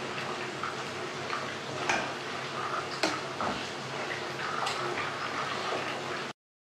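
Pieces of chicken frying in a pan with a steady sizzle, and a few sharp clinks of metal tongs against the pan as they are turned. The sound cuts off abruptly near the end.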